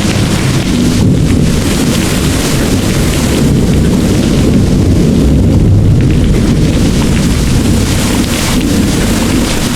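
Heavy, steady rain with a deep rolling rumble of thunder that swells through the middle and eases toward the end.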